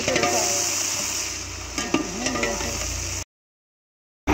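Food sizzling in a pan, with a couple of sharp clicks about two seconds in; the sound drops to dead silence for about a second near the end.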